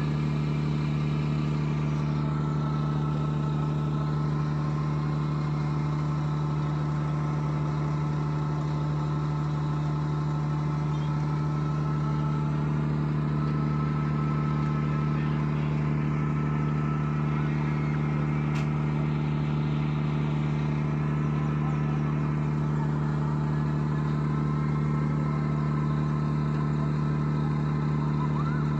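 A motor running steadily at an unchanging pitch, a constant low hum.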